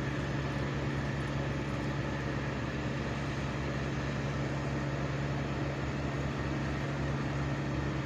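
A large engine running steadily at high speed, with an even, unchanging pitch.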